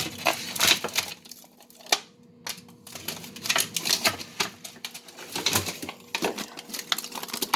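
Rapid, irregular clicking and crinkling of packages and containers being handled and moved about in a stocked refrigerator.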